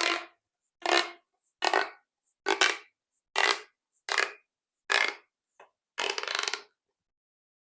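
Big pop tubes, corrugated plastic toy tubes, worked by hand in a run of crunchy crackles, about one a second, eight or so in a row, the last one drawn out longer.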